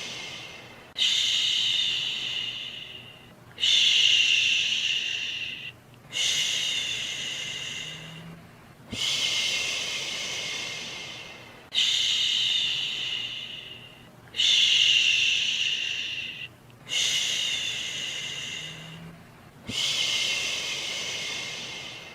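A person shushing, a long 'shhhh' repeated over and over, the soothing shush used to settle a baby to sleep. Each shush starts sharply and fades away over about two seconds, with a brief pause before the next, about eight in a row.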